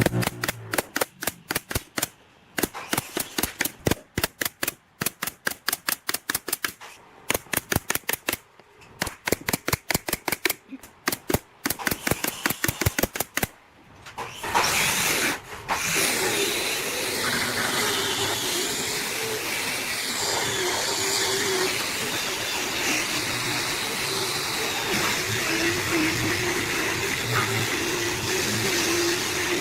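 Rapid, regular knocks, about five a second, come in runs of one to two seconds with short pauses between. About fourteen seconds in they give way to a machine running steadily.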